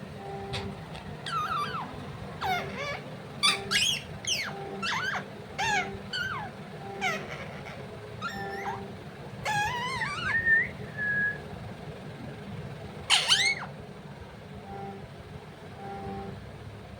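Parrot calling: a rapid string of short chirps, whistles and squawks with quick rises and falls in pitch, ending in a loud sharp call about thirteen seconds in, after which it goes quiet.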